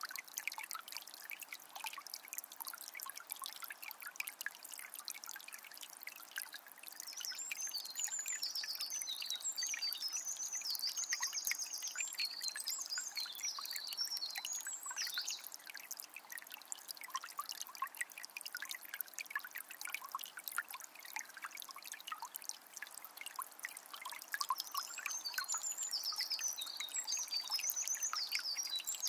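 Forest river trickling and babbling steadily over its bed. A small bird sings quick high chirping phrases in two spells, one from about a quarter of the way in to about halfway, and another near the end.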